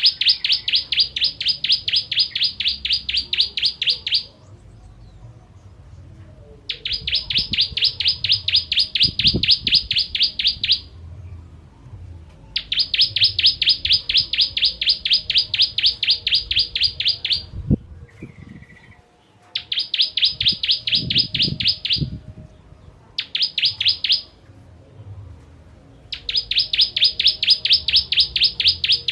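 Ciblek kristal (a prinia) singing in bouts of fast, evenly repeated high notes, about seven or eight a second. Each bout lasts a few seconds, with short pauses between.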